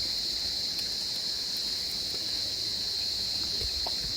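Insect chorus, likely crickets, making a steady, unbroken high-pitched trill.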